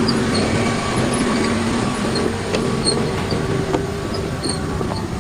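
Machinery running with a steady noisy din and a few held whining tones, and a couple of sharp knocks in the middle.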